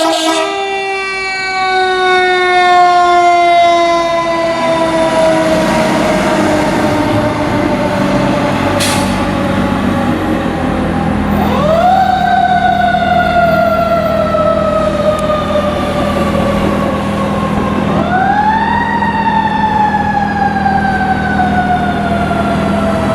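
Federal Q mechanical siren on a fire engine, winding down slowly, then spun back up twice, about halfway through and again near the end, each time peaking and then coasting down in a long falling wail. The truck's diesel engine runs steadily underneath.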